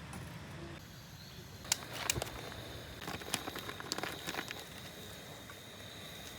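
Quiet outdoor ambience with a scattering of light clicks and taps over a couple of seconds, and a thin steady high-pitched tone that comes in about two seconds in and keeps going.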